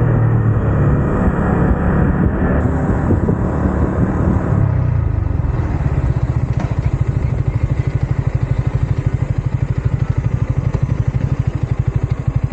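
Yamaha MT-15's 155 cc single-cylinder engine and exhaust. It is running under way, and its note falls as the bike slows about four to five seconds in, then settles into a steady idle with evenly spaced exhaust pulses.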